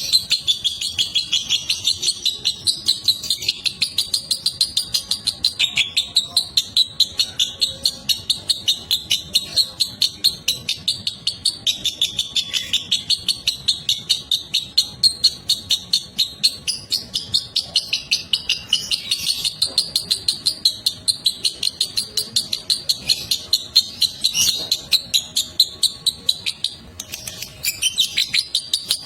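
Lovebird giving its long chattering song (ngekek): an unbroken run of rapid, shrill notes at about four a second. The run breaks off briefly near the end, then resumes.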